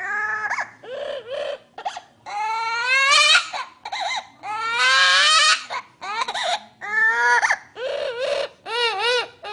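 A voice crying like a baby, in a string of repeated wails, many of them rising in pitch.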